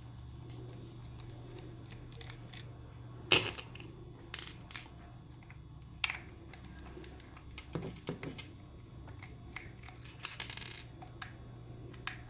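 Scattered clinks and clicks of small hard objects, the loudest about three seconds in, over a steady low hum.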